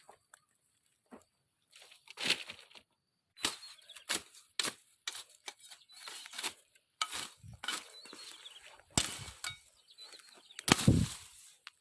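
Brush and branches rustling and snapping in irregular bursts as woody growth is cut and pushed through, with a heavier crack or thump near the end.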